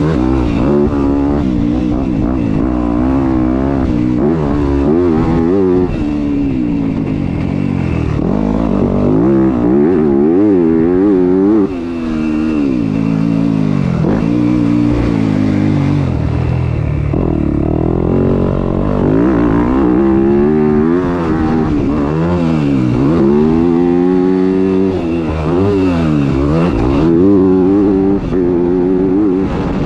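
Off-road motorcycle engine running hard and revving up and down over and over, its pitch climbing and dropping every second or two as the rider accelerates, backs off and shifts.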